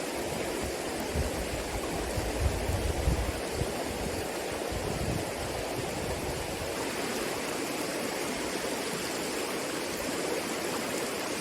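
Creek water running steadily over rocks. A few soft low bumps come in the first half.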